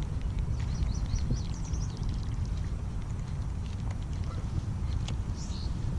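Outdoor pond ambience: a steady low rumble with a few faint, short high-pitched bird chirps about a second in and again near the end.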